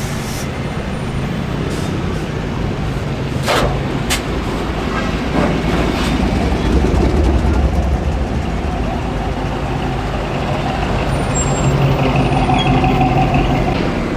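Truck engines running at low speed, getting louder around the middle and again near the end, with two sharp knocks about three and a half and four seconds in.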